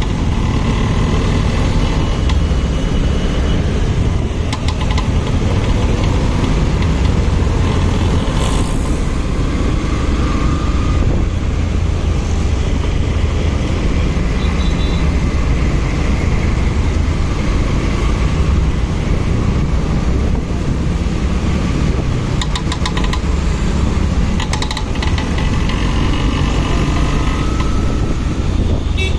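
A motorcycle being ridden along: a steady engine note under a heavy, unbroken rumble of wind and road noise on the microphone.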